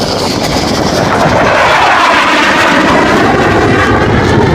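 Military aircraft flying past, its engine noise swelling about a second in and staying loud.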